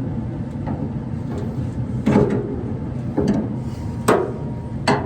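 A few sharp clunks and knocks, about four of them spread over the last three seconds, from handling parts of a dryer during roller and belt work, over a steady low hum.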